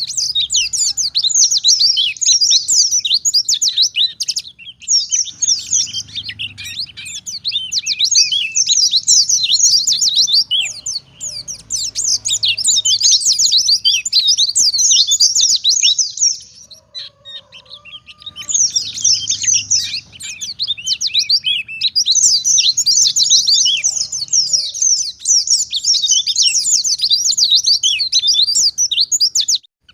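White-eye (pleci) singing a long, very fast, high twittering song in rapid bursts, with a short break about five seconds in and a longer pause past the middle.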